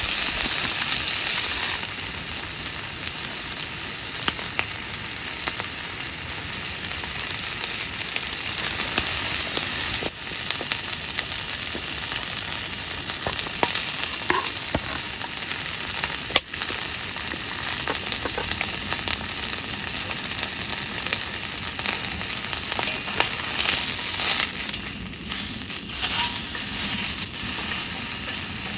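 Food sizzling steadily as it fries in a pan, with small crackles and an occasional tick of stirring.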